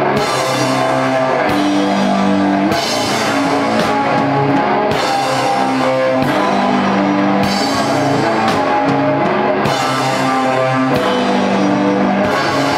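Rock band playing live: sustained guitar chords over a drum kit, with cymbal washes coming in and dropping out every couple of seconds.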